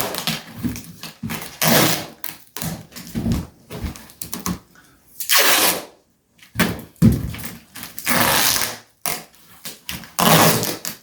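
Irregular knocks, thumps and rustling noises, with a few longer hissing bursts.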